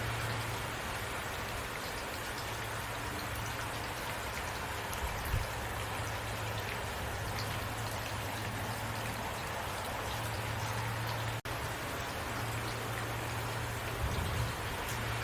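Steady rain falling, an even hiss of drops with a low steady hum underneath. The sound cuts out for an instant about eleven seconds in.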